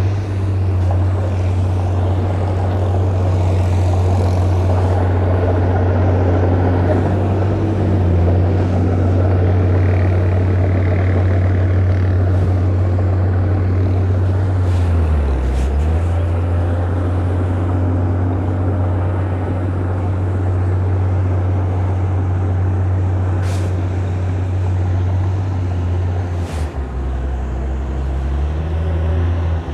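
Heavy diesel engine of earthmoving machinery running under load with a steady low drone. The engine speed drops briefly about halfway through and settles lower near the end, with a few sharp metal clanks along the way.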